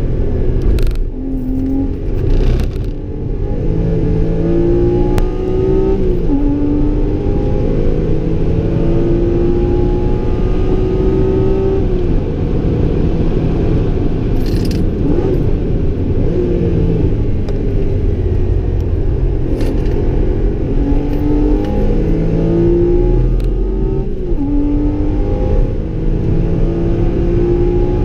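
A Porsche 981 Boxster S's 3.4-litre flat-six, heard from inside the cabin, driven hard on track: the engine note repeatedly climbs as it revs out and falls back at each gear change. Steady tyre and road rumble runs underneath, with a few sharp knocks and rattles.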